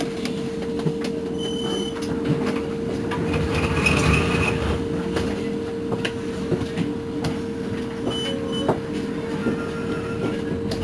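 Irizar ie tram battery-electric bus running, with a steady electric whine over rumbling and rattling. Short high beeps sound about one and a half seconds in and twice more near eight seconds.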